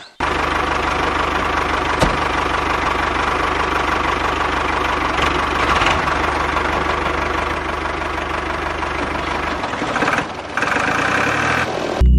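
Small engine of a DIY mini tractor running steadily with a knocking idle, dipping briefly about ten seconds in.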